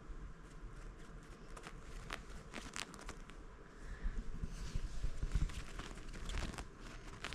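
Faint rustling and crinkling with scattered small clicks, a parrot moving about on bedding; it gets busier about halfway through.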